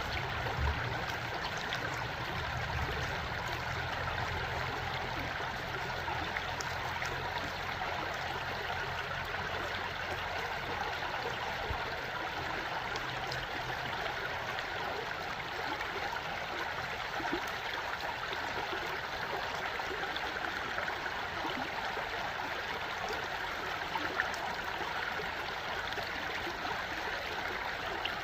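Water of a stream flowing and trickling in a steady, even rush, with a low hum underneath that fades out about halfway through.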